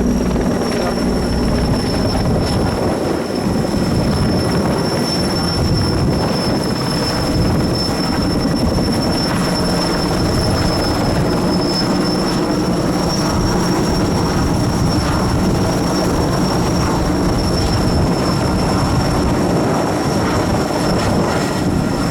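Large turbine firefighting helicopter running close by, a steady dense rotor noise with a high, even turbine whine over it, as it draws water from a portable tank.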